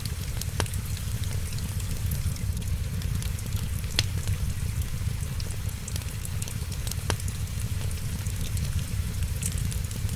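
Wood fire crackling steadily, with three sharper pops about half a second, four and seven seconds in, over a constant low rumble and the hiss of rain.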